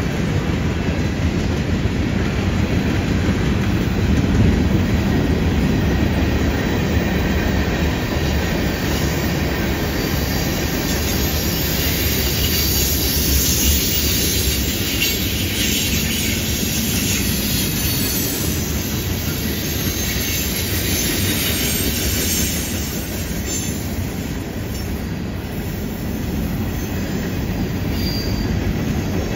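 Freight train cars rolling past on a curve: a steady rumble and clatter of steel wheels on rail. Wheel flange squeal from the curve comes and goes and is strongest about halfway through.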